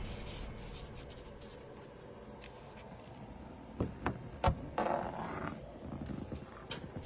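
Pen scratching on paper, a note being written, with a few sharp taps about four seconds in.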